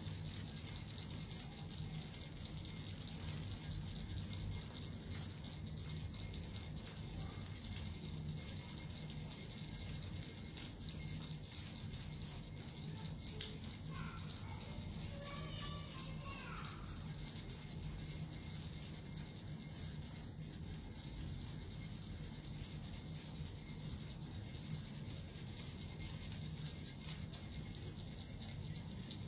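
Japanese suzu bells and a metal rattle shaken without pause, a steady, dense high-pitched jingling.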